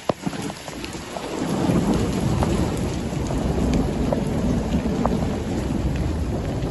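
Hailstorm downpour: a dense hiss of rain and hail pelting down, with scattered sharp hits of stones striking surfaces and a low rumble building about a second in. Two sharp knocks right at the start.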